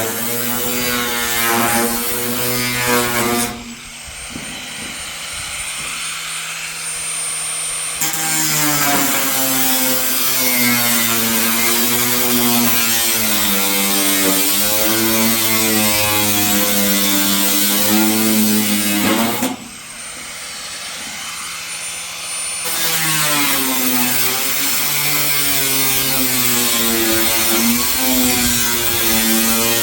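A motor running, its pitch wavering up and down as if under changing load, with two lulls where it drops to a lower, steadier hum.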